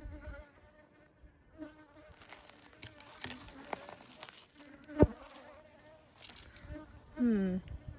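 Honeybees buzzing around a broken-into hive, a faint steady hum. A single sharp click about five seconds in.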